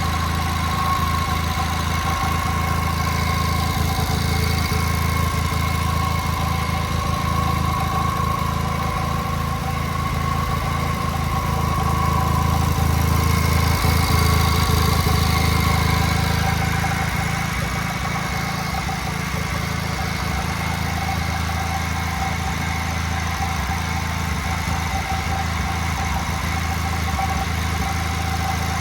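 1956 JAP Model 55 single-cylinder engine running steadily on its stand, driving an ex-army 5 kW generator; the sound grows a little louder for a few seconds midway, then settles.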